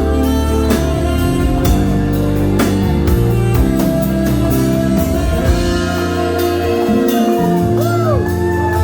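Live band music: an instrumental passage led by guitar over a drum kit, with a wavering melody line coming in near the end.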